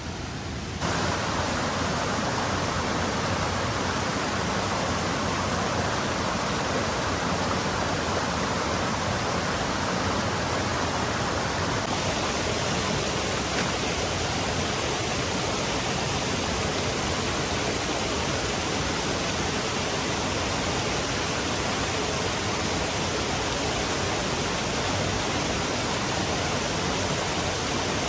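Steady rush of water, a dense even noise that steps up louder about a second in and turns a little brighter partway through.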